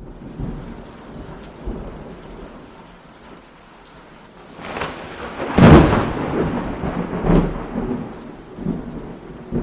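Steady rain with a loud thunderclap about five and a half seconds in that rumbles on and fades, and a smaller clap a couple of seconds later.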